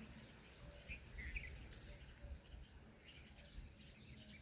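Faint, short bird chirps, a few scattered calls, over a low background rumble.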